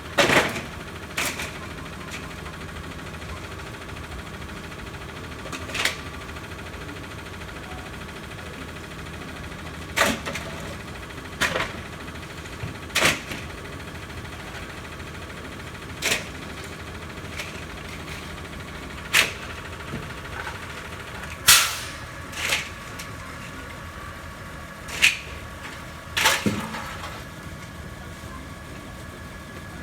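A McNeilus rear-loader garbage truck's diesel engine idling steadily, with about a dozen loud, irregularly spaced bangs and clatters of bulky waste being thrown into the rear hopper.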